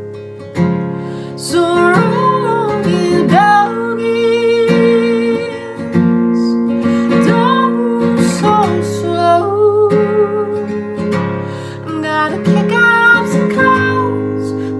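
Acoustic guitar strummed as accompaniment to a woman singing a slow folk song, her voice wavering and sliding between notes.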